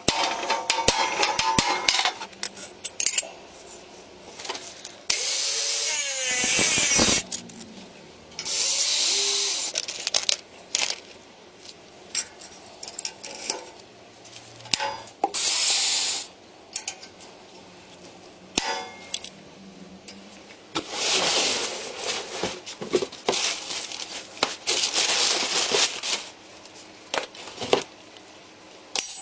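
Workshop clatter of tools and metal parts: many sharp clicks and knocks, broken by several bursts of a power tool lasting a second or two each.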